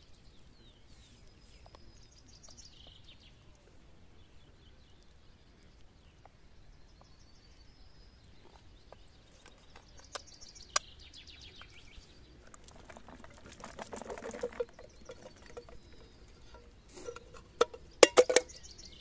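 Small birds chirping in short phrases, with a single sharp click about eleven seconds in. From about thirteen seconds in come rustling, rattling handling noises and a few sharp knocks near the end, from particle bait being mixed.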